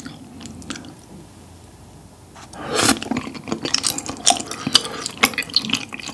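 Close-miked chewing of chewy Korean rice cakes (tteokbokki) in thick sauce: soft at first, then loud, wet mouth sounds full of quick sharp clicks from about two and a half seconds in.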